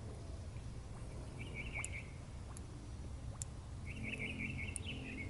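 Birds twittering in two short bursts of quick chirps, the second starting about four seconds in, over a steady low background rumble, with a few faint ticks.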